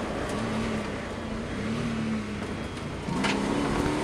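Rally car engine heard from inside the caged cabin, running lighter at lower revs with its note wavering. About three seconds in a sharp click comes, and the engine pulls hard again with the revs rising.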